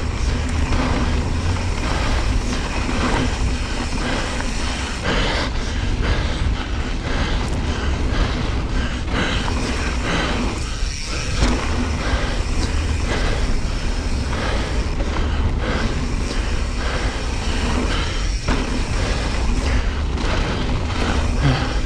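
Wind buffeting the microphone while a mountain bike's knobby tyres roll fast over a dirt trail. The bike rattles and knocks over bumps throughout, over a constant low rumble.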